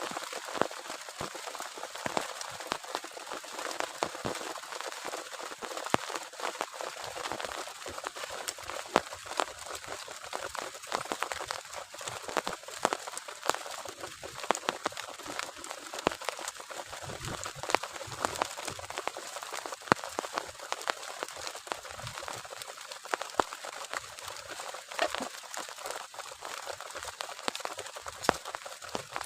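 Heavy rain falling steadily, a dense patter of individual drops striking a surface.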